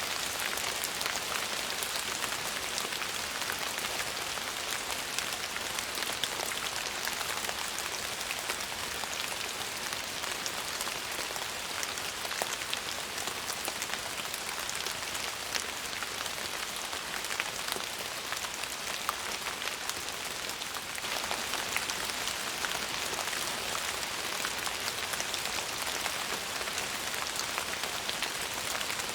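Steady rain falling on a surface: a constant hiss dotted with many small drop ticks.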